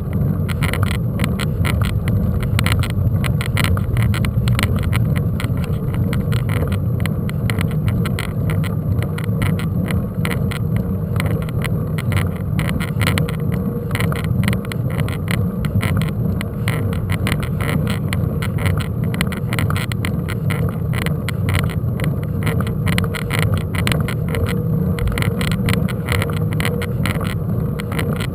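Mountain bike being ridden over rough ground: a steady low wind rumble on the microphone and a constant stream of rattling ticks from the bike.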